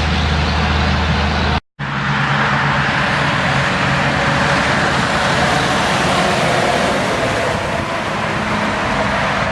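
Road traffic: a heavy vehicle's engine drones steadily and low, then cuts off abruptly. Steady passing-traffic noise follows, with road and tyre hiss.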